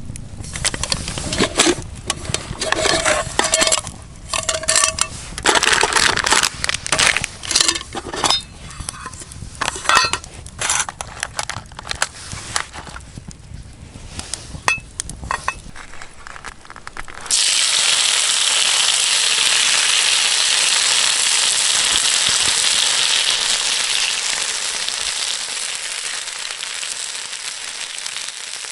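Irregular crackles, knocks and clinks for the first half, then about 17 seconds in a steady sizzle starts suddenly and slowly eases: food frying on a hot pan over a campfire.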